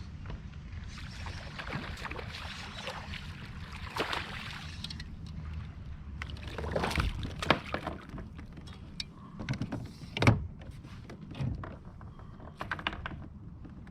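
Handling noise on a fishing kayak on the water: a steady low rumble of water and wind, with a string of sharp knocks and clicks against the hull in the second half, the loudest about ten seconds in.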